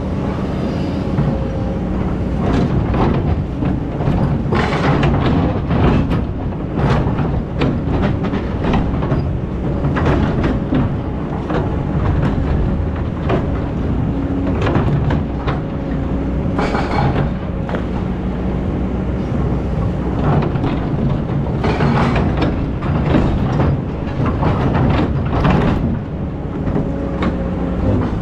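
Excavator's diesel engine running under load, with frequent irregular knocks and scrapes as it works.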